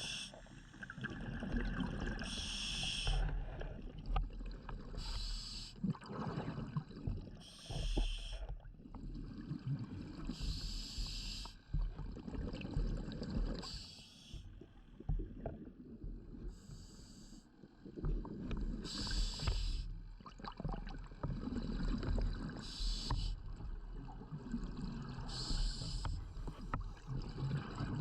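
Scuba diver breathing through a regulator underwater: a short hiss of each inhale alternating with the low rumble of exhaled bubbles, about every two to three seconds.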